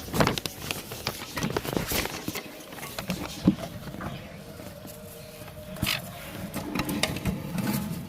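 Sun conure chicks making short, scratchy calls at irregular intervals, mixed with small clicks and rustles, with a longer rasping call about six seconds in.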